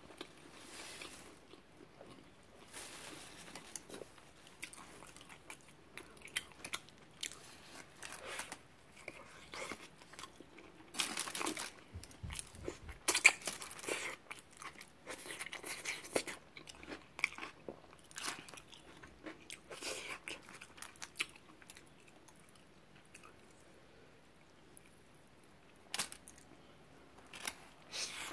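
Close-miked eating of a fried shrimp and fish burrito: biting, chewing and wet mouth clicks with some crunch, in irregular bursts. The sounds are busiest around the middle and die down to a quiet stretch before another bite near the end.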